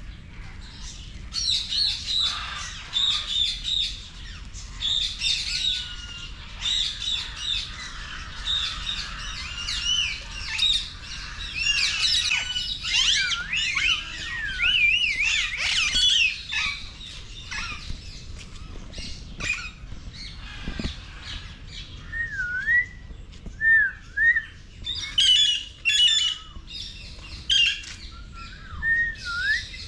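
Many birds calling at once, a dense chorus of shrill chirps and whistles. About two-thirds of the way in it thins to fewer, separate calls, including a few short down-and-up whistles.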